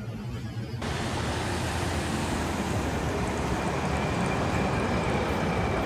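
Steady rushing noise that starts abruptly a little under a second in and holds even.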